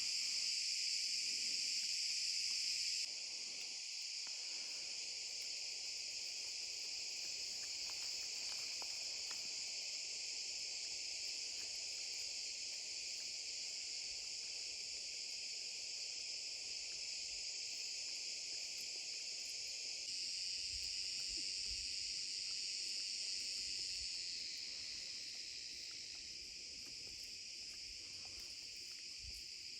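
Steady, dense chorus of insects trilling in a forest, with no single call standing out. It drops suddenly in level about three seconds in, swells a little around twenty seconds and softens again a few seconds later.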